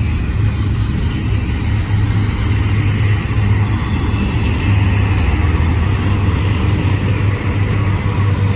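Double-stack intermodal container train rolling past: a loud, steady rumble of wheels and cars on the rails.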